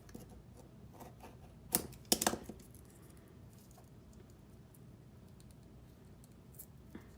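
A few small clicks and paper rustles from unwrapping a watercolour half pan from its paper wrapper, the loudest a pair about two seconds in, with low room noise between them.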